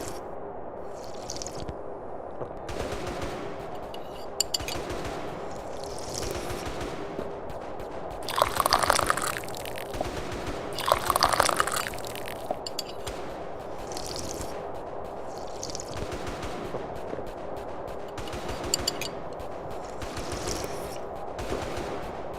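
Tea being sipped and slurped from a cup, with a fine crackle of clicks throughout. Two louder slurps come about eight and eleven seconds in.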